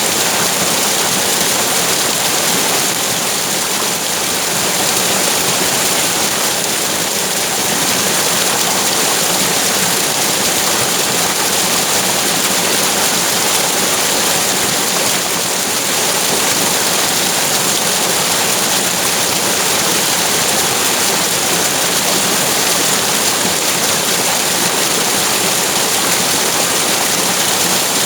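Flowing water rushing steadily, an even unbroken wash of noise.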